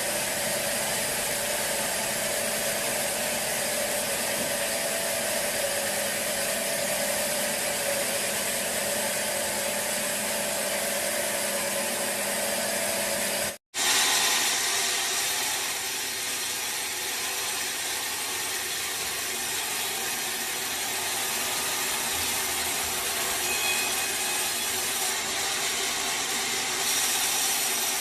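Band sawmill cutting a teak log: a steady hiss of the blade in the wood over the hum of the mill's engine. The sound drops out for an instant about halfway, then carries on steadily with less hum.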